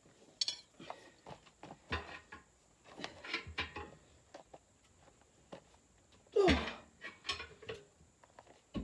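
Hand work on a tractor tire and steel wheel: scattered metallic clinks, knocks and scrapes, with one loud sound about six and a half seconds in whose pitch slides downward.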